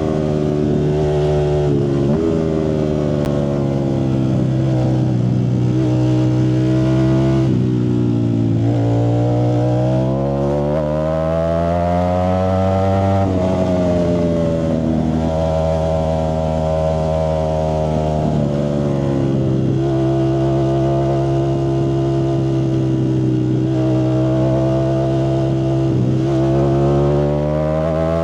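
Ducati Streetfighter V4S's V4 engine running through a Zard exhaust, its note rising and falling with the revs: it climbs slowly from about ten seconds in, drops sharply near thirteen seconds, holds steady for a few seconds, then climbs again near the end.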